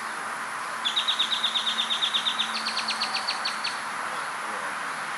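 A songbird sings a trill of rapid, high chirps, about ten a second, that steps up to a slightly higher, slower run of notes halfway through and stops after nearly three seconds. Steady background noise runs underneath.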